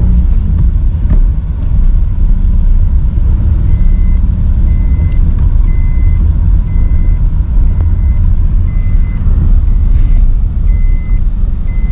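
Motor vehicle running, a loud steady low rumble of engine and road noise. From about four seconds in, an electronic beep repeats evenly a little over once a second.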